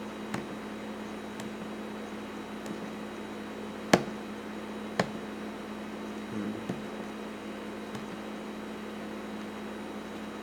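Steady low electrical hum over faint hiss, with two sharp clicks about four and five seconds in and a few fainter ticks.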